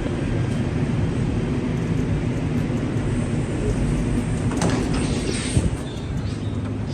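Steady low rumble of a moving vehicle, with a few light ticks about two-thirds of the way through.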